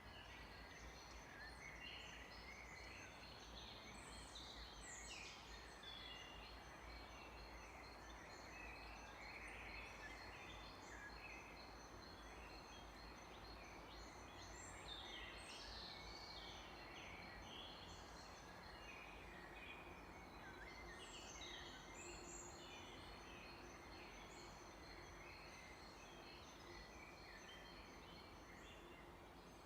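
Faint chorus of many songbirds chirping and singing over a steady low hiss.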